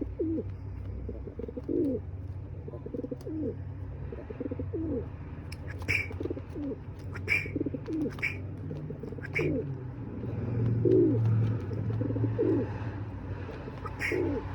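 Birds calling: a low, falling note repeated about once a second, with a few sharp, high, falling chirps here and there over a steady low hum.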